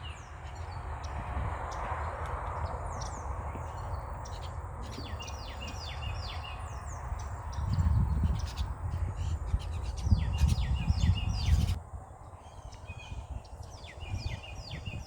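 Small songbirds at a feeder chirping: many short, quick chirps one after another. Under them runs a low rumble on the microphone, which swells about halfway through and again a little later before dropping off.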